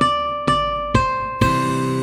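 Ukulele tab arrangement of a pop song playing with its backing track: plucked notes at about two a second, with a bright crash about one and a half seconds in.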